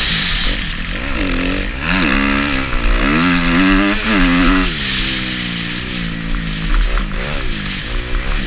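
Kawasaki KX250F motocross bike's 250 cc four-stroke single-cylinder engine, revving up and falling back several times as the throttle is opened and shut through the gears.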